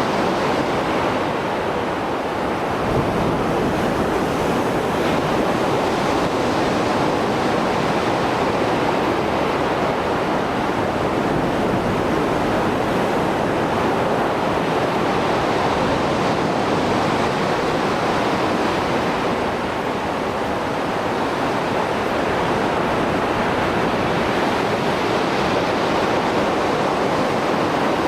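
Mediterranean surf in the rough sea after a storm: waves breaking and washing ashore in a continuous rush that swells and eases slowly.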